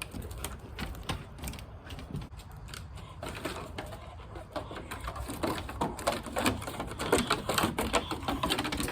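Footsteps of people and a dog walking along a pier, heard as a rapid, irregular clatter of steps that grows louder from about halfway in.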